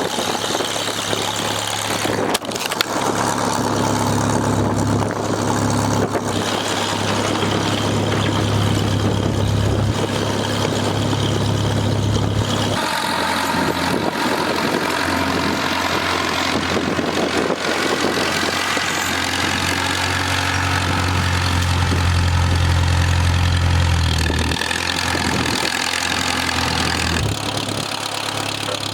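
Farmall M tractor engine running steadily, changing speed about thirteen seconds in and again a couple of times near the end.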